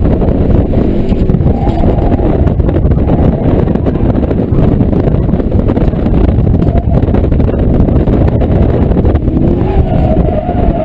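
Volkswagen Golf GTI MK6's turbocharged four-cylinder engine running hard through an autocross run, heard loud and steady inside the cabin along with road noise.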